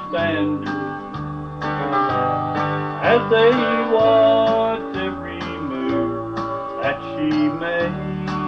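Instrumental break of a country gospel song: guitar strumming over alternating bass notes in a steady rhythm, without singing.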